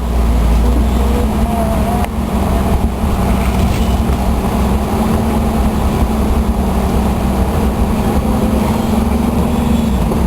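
A vehicle driving along: steady low engine and road rumble.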